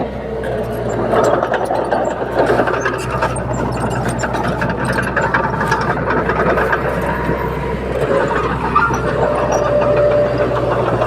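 Bulldozer's diesel engine running steadily under work, with a constant low hum and scattered metallic clanks.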